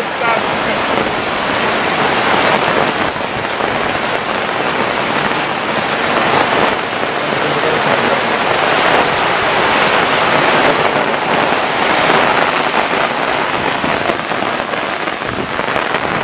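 Heavy rain pouring steadily, a dense, even hiss of drops that is loud throughout.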